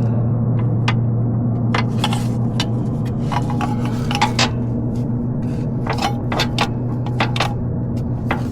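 Metal hand tools, a wrench and socket extension, clinking and scraping against engine parts in irregular sharp clicks, over a steady low hum.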